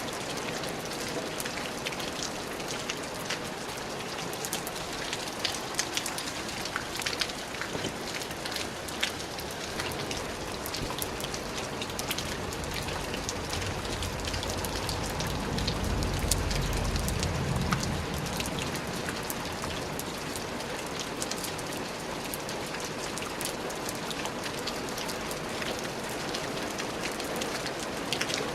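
Steady rain falling on a surface, with many distinct drops ticking sharply over an even hiss. A low rumble swells and fades about halfway through.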